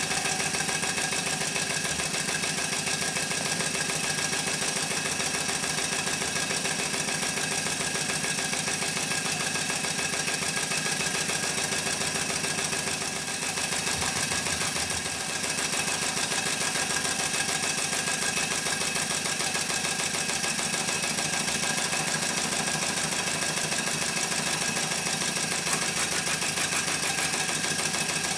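1½-inch scale Royal Chester live-steam showman's traction engine running under steam, with a steady, rapid beat from its exhaust and motion. The sound dips briefly twice near the middle.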